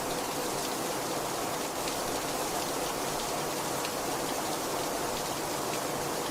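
Heavy rain falling steadily, a dense even hiss with faint ticks of individual drops striking a surface.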